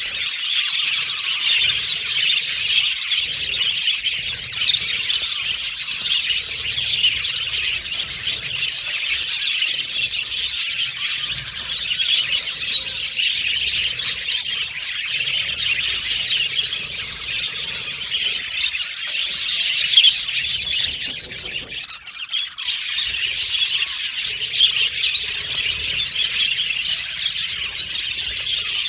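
A group of budgerigars chattering and chirping continuously, a dense stream of high warbles and tweets, briefly thinning about 22 seconds in.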